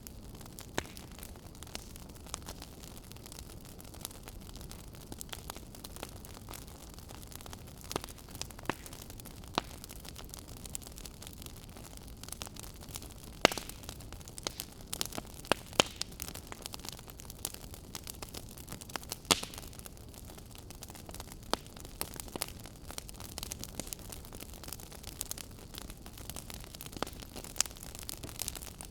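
Log fire crackling in a fireplace: a steady low hiss with irregular sharp pops and snaps. The loudest pops come about 13 seconds in and again about 19 seconds in.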